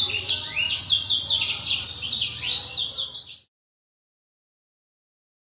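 Black-throated canary singing a fast, unbroken warbling song of rapid high notes, which cuts off abruptly about three and a half seconds in.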